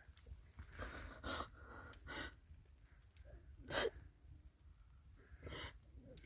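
A girl crying: a string of short, catching, gasping breaths between sobs, the sharpest about four seconds in.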